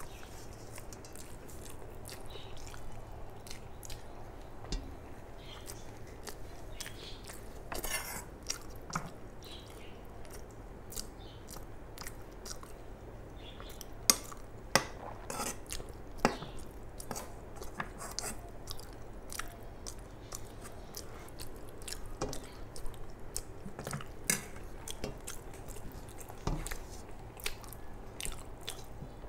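Close-miked chewing and wet mouth sounds of someone eating rice and chicken liver and gizzard curry by hand: many short smacks and clicks. A few sharp clinks come near the middle as a steel spoon scoops curry from the metal pan.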